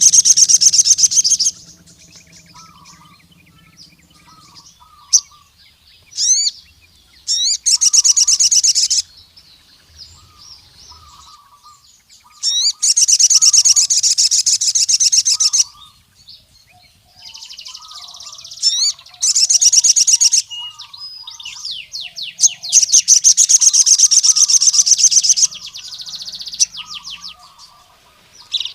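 Male sogon (crimson sunbird) singing: loud, rapid high trills in bursts of one to three seconds, broken by short sharp notes. Softer chirps lower in pitch repeat throughout.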